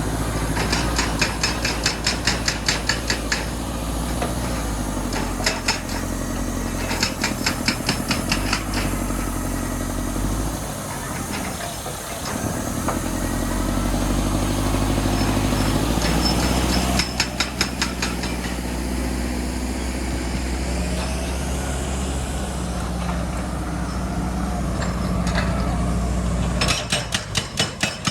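Heavy machine's diesel engine running steadily, broken by several spells of rapid hammering blows, several a second, each spell lasting a second or two.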